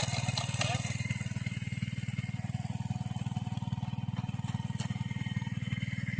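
An engine running steadily at an even speed, its firing a fast, even pulse that does not change.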